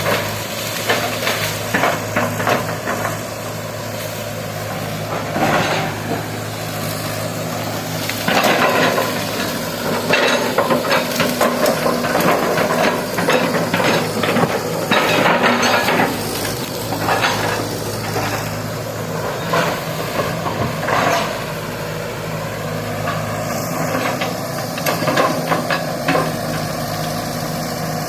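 Excavator's diesel engine running steadily while it digs, with repeated irregular clanks, knocks and scrapes, busiest in the middle stretch.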